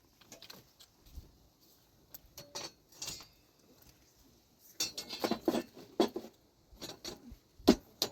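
Irregular clinks and knocks of hard objects being handled, with a dense cluster about five seconds in and one sharper knock near the end.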